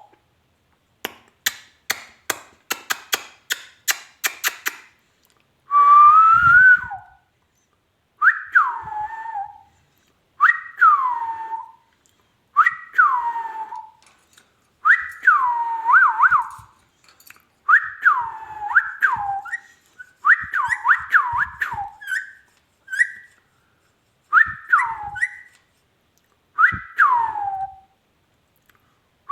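Ringneck parrot whistling: a rising whistle, then a long run of short falling whistle notes in groups of one to three. The whistling follows a quick series of sharp clicks in the first few seconds.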